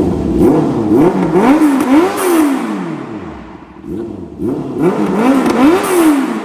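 2021 Honda CB650R's inline-four engine revved through a full aftermarket exhaust with a bomb-style muffler. It gives two bursts of quick throttle blips, the revs rising and falling several times in each and dropping back to idle between them.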